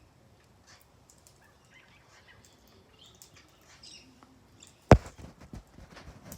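Birds feeding: faint chirps and light ticks, then a sharp knock about five seconds in, followed by a quick run of pecking taps.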